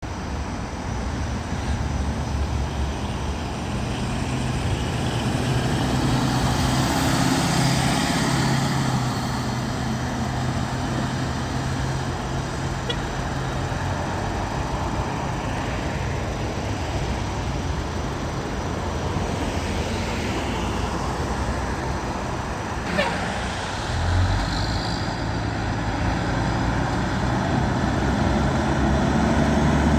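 Fire trucks' diesel engines running and moving off, heard over steady street traffic, with one sharp click about three-quarters of the way through.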